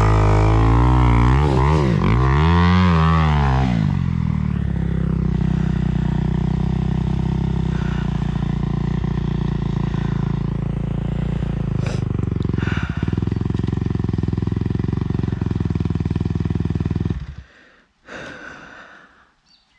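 Dirt bike engine revving up and down twice, then idling steadily until it is shut off about seventeen seconds in.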